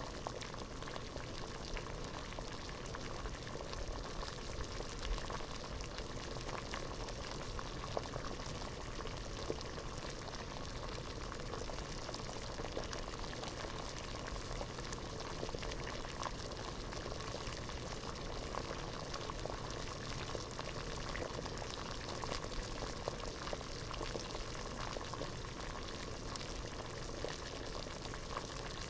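Water boiling hard in a pot: a steady, dense bubbling with many small pops and crackles.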